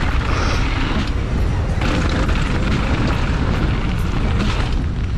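Wind buffeting the action-camera microphone during a fast mountain-bike descent, with tyres on the dirt trail and the bike rattling over bumps in many short ticks.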